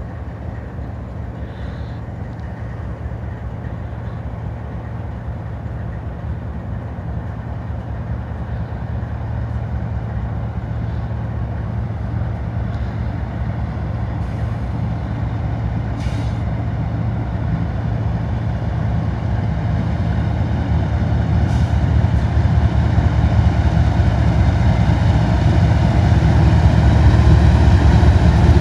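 The diesel engines of an approaching BNSF freight train's eight-unit GE locomotive consist give a low, steady drone that grows steadily louder as the train draws nearer.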